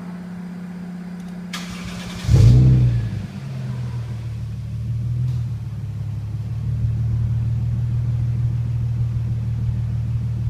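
Toyota Aristo's 2JZ-GE straight-six breathing through an aftermarket 5ZIGEN muffler, being started: a brief crank, then a loud flare as it catches about two seconds in, falling back into a steady idle.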